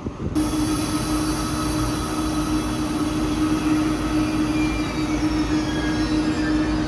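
ICE 3M (DB class 406) high-speed electric train pulling away, its traction converters giving a steady electric whine. Higher tones begin to climb in pitch near the end as it gathers speed.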